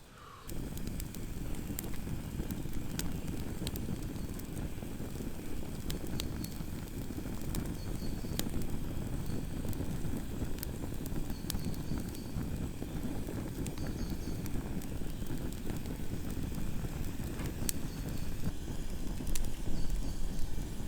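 Wood campfire burning, with a steady low rush of flame and frequent sharp crackles and pops.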